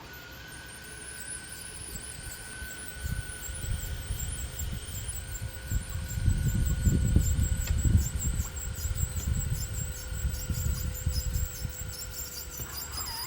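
Minn Kota Ultera bow-mount trolling motor's powered stow mechanism running with a steady electric whine as it stows the motor. Gusts of wind buffet the microphone from about three seconds in.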